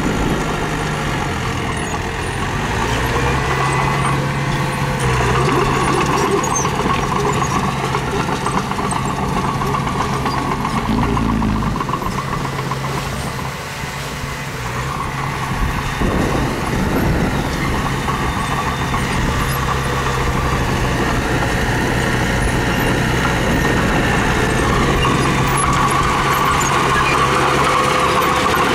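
Heavy machinery engine running steadily, with a brief low rumble about eleven seconds in.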